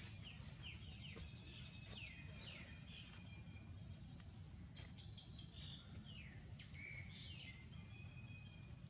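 Birds chirping faintly: many short, quick, high calls that sweep downward, scattered through the whole stretch, over a low steady rumble.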